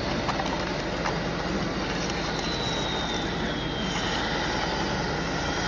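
Heavy vehicle engine running steadily, with a faint high whine that slowly falls in pitch.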